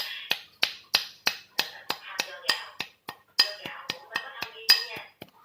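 Repeated sharp taps or knocks with a slight clinking ring, about three a second, with a short pause partway through, from hands-on work on a laser printer during a fuser repair.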